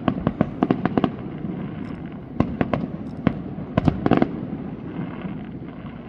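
Fireworks going off in quick clusters of sharp cracks and bangs, a rapid run in the first second and more bursts about two and a half and four seconds in, over a low rumble of echo.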